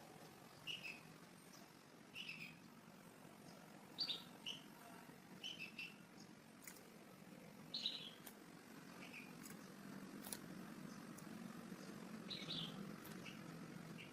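Faint bird chirping: short high notes repeated every second or two over a low steady hum, with a few faint clicks.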